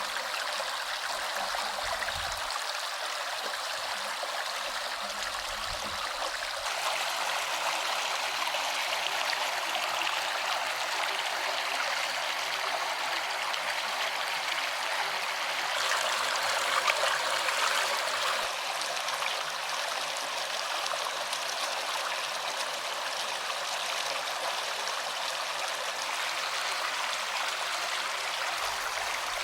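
Stream water flowing steadily, a little louder for a couple of seconds near the middle.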